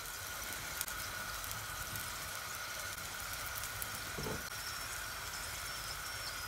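Steady crackling sizzle, like food frying in a hot pan, with a faint steady tone running through it and a short low sound about four seconds in.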